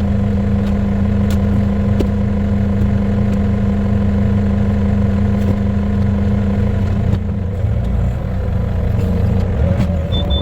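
A steady engine drone with a constant low hum and rumble, and a few faint clicks.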